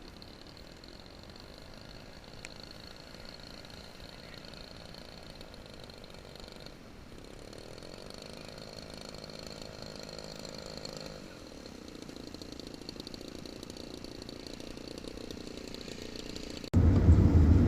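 Faint, distant buzz of a model aircraft's petrol engine in flight, its pitch holding and then dropping slightly about halfway through. Near the end it cuts abruptly to a much louder low rumble.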